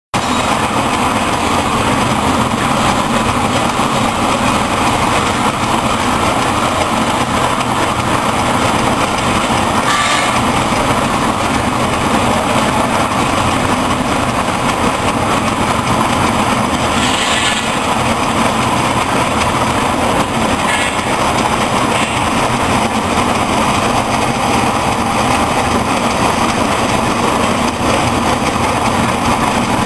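Commercial peanut grinder machine running steadily, its electric motor and grinding making a constant mechanical hum, with a few brief sharper sounds about ten, seventeen and twenty-one seconds in.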